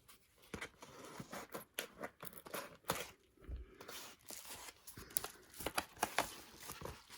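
Packaging rustling and crinkling as items are handled and unwrapped, with many small irregular clicks and taps.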